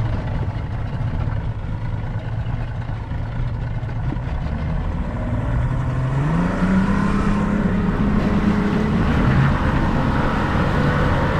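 Motorboat engine running steadily, its pitch rising about six seconds in as it throttles up and then holding higher.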